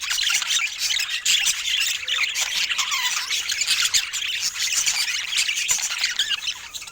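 Budgerigars chattering: a continuous warbling stream of quick chirps and squeaks.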